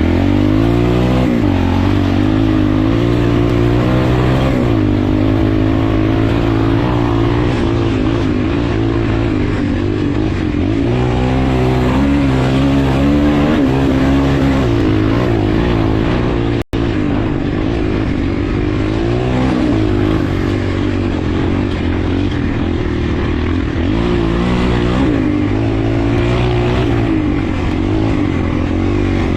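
Motocross motorcycle engines revving, their pitch rising and falling again and again as the bikes accelerate and back off. The sound cuts out for an instant about two-thirds of the way through.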